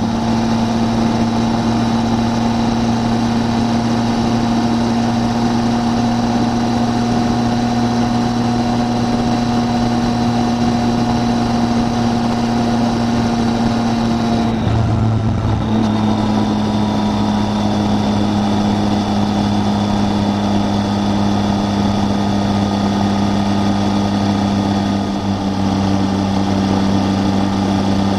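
Triumph Tiger 800's three-cylinder engine running steadily on the move. About halfway through the tone breaks briefly and settles slightly lower, as with a gear change.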